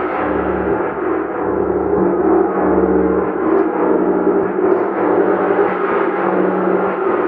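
A gong being played continuously: a loud, sustained wash of many overlapping ringing tones. A low throb pulses about once a second through the first half.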